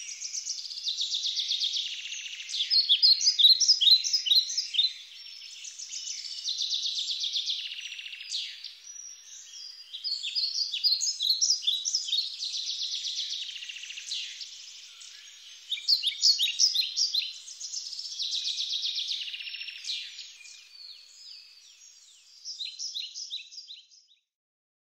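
Birds singing outdoors, a dense overlapping chorus of quick chirps and trills that swells and fades every couple of seconds, cutting off shortly before the end.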